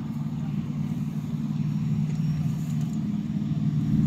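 Vehicle engine running at a steady low drone, with no sharp revving, growing gradually louder toward the end.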